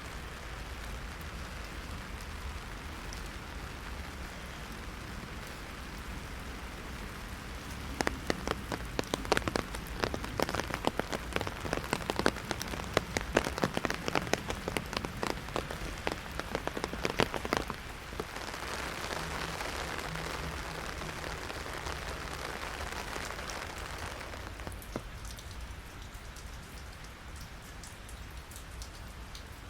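Heavy rain pattering on an umbrella. Between about 8 and 18 seconds in, a dense run of sharp, louder drop hits stands out over the steady hiss, which then turns smoother and eases off near the end.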